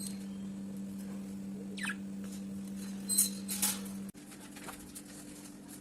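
Pet budgerigars giving a few short, high chirps, one quick falling chirp about two seconds in and a couple more a second or so later, over a steady low hum that drops abruptly about four seconds in.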